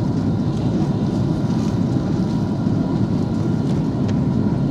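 Airbus A330-300 cabin noise during the descent to land: a steady low rumble of engines and airflow, with a faint steady whine on top.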